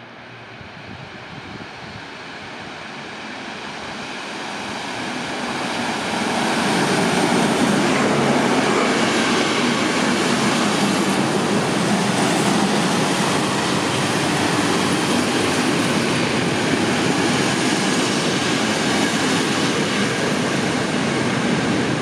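Heritage passenger train hauled by a V180 (DR class 118) diesel-hydraulic locomotive, growing louder as it approaches over the first several seconds. Then its coaches roll past close by with a steady loud rumble of wheels on the rails.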